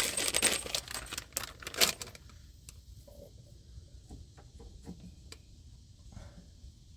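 Half-inch copper PEX crimp rings jingling and clattering together as they are picked through, for about two seconds, then a few scattered light clicks and taps of parts being handled.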